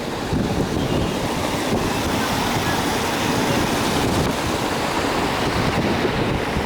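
Loud, steady rushing noise with gusty rumble, as of wind buffeting the microphone outdoors.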